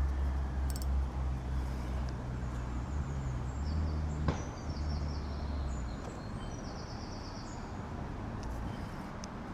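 A low, steady engine drone that stops about six seconds in, with faint bird chirps over it and a single sharp click a little past four seconds.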